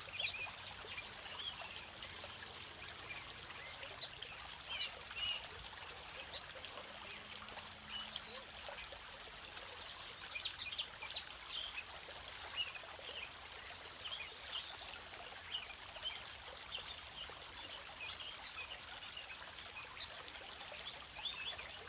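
A small creek trickling and burbling: a steady rush of running water with many quick, bright splashing sounds.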